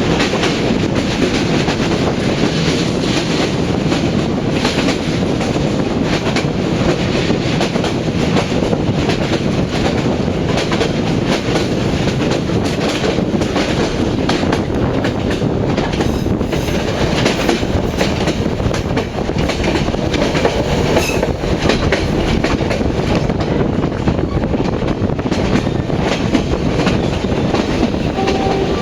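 Passenger train running on the Vietnamese north–south railway: a steady rumble of wheels on the rails with a dense clatter of small clicks throughout.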